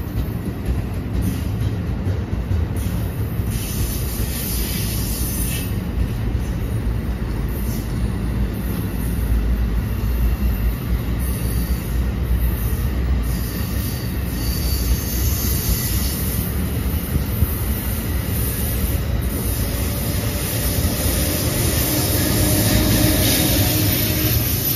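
A train of NJ Transit bilevel coaches rolling past: a steady rumble of wheels on rail, with a few faint high squeals partway through, growing louder near the end.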